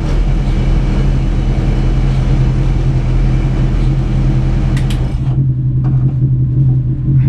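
Ford Focus race car's engine idling steadily at low revs, heard from inside the stripped cabin. Two sharp clicks come just before five seconds in, and a steady hiss stops right after them while the engine runs on.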